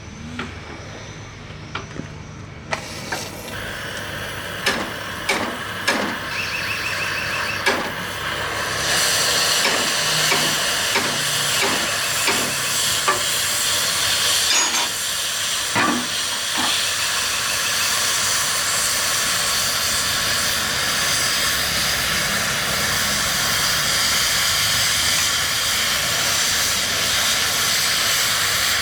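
Torch flame hissing steadily, starting a few seconds in and getting stronger and fuller after about nine seconds, with scattered sharp metal knocks during the first half.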